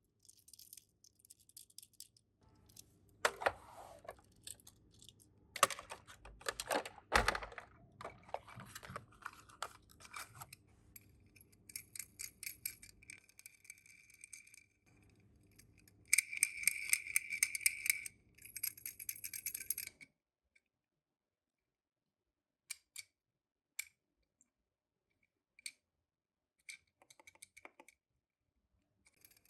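Die-cast toy minicars and their plastic cases being handled: scattered clicks and small rattles, with a busier stretch of rattling after the middle, then only a few isolated clicks near the end.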